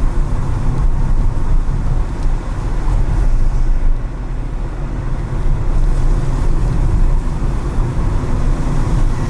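Steady low rumble of a car driving, engine and road noise, easing slightly about four seconds in.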